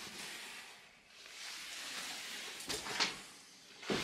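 Rustling and shuffling, with a few sharp knocks and clatters about three seconds in and again at the end, as of someone moving about and handling things in an empty wooden house.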